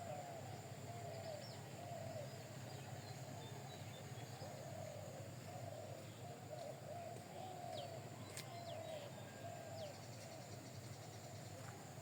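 Birds calling: a steady run of short, low, arched notes, one after another, with a few faint higher chirps over them and a single sharp click about two-thirds of the way through.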